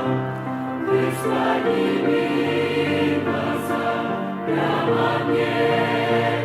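Church choir singing a hymn: several voices in held chords that change every second or so, with sung consonants hissing briefly now and then.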